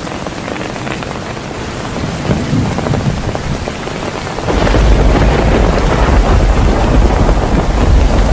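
Heavy rain falling during a thunderstorm, with thunder rumbling. About halfway through, the sound suddenly gets much louder and deeper, and stays that way.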